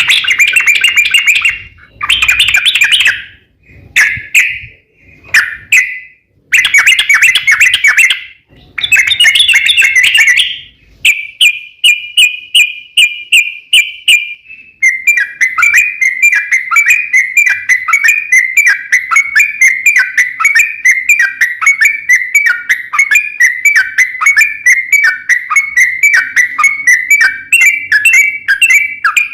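Yellow-vented bulbul song: loud bursts of chattering notes, then from about eleven seconds in a long, rapid, unbroken trill of repeated notes.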